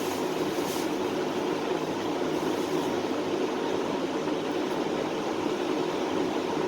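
Steady machine drone with a faint low hum and no distinct strokes or changes.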